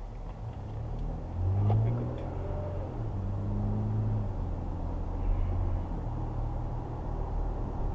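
Car cabin road and engine noise picked up by a dashcam, a steady low drone that swells briefly about a second and a half in.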